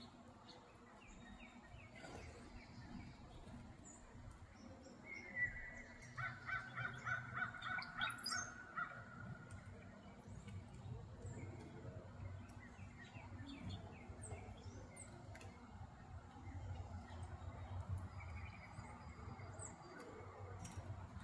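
Wild birds chirping and calling, with a loud run of quick repeated calls from about five to nine seconds in.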